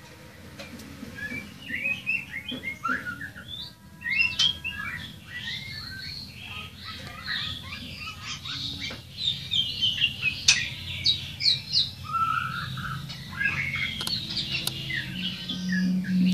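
Birds chirping and calling in many quick, overlapping short notes, over a low steady hum that grows louder near the end.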